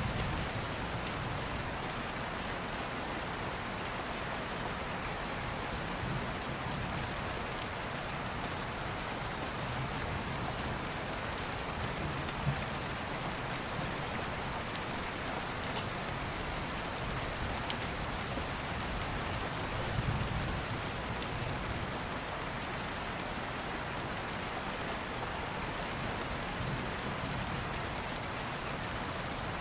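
Steady rain falling, with a few sharp crackles from an open fire now and then.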